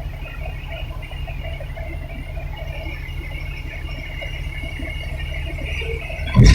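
Dump truck engine running steadily, with a single sharp knock near the end.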